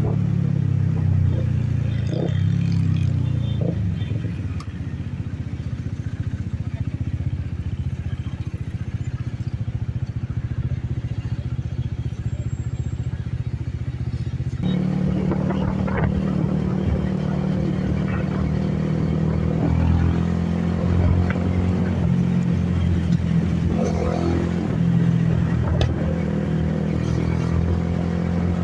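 A Benelli TNT 25's single-cylinder engine is running at a fairly steady pitch under a rider. The engine note drops back a few seconds in, as the throttle is eased, and stays low for about ten seconds. About halfway through it comes back on strongly and holds a steady drone.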